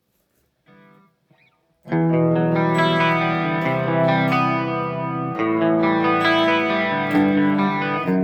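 Electric guitar played through a chorus pedal. After a near-silent gap with a brief faint note, ringing chords start about two seconds in and change every second or two.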